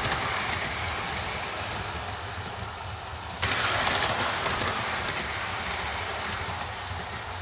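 O scale model train rolling along the track, its wheels clicking and whirring on the rails. The sound jumps suddenly louder a little before halfway, then slowly fades.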